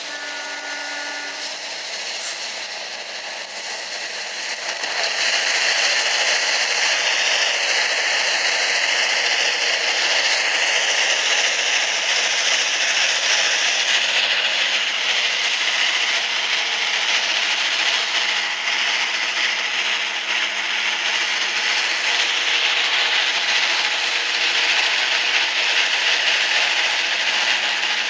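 Passenger train's steel wheels running on the rails, a steady loud rush that grows louder about five seconds in as the train enters a rail tunnel, the noise echoing back off the tunnel walls.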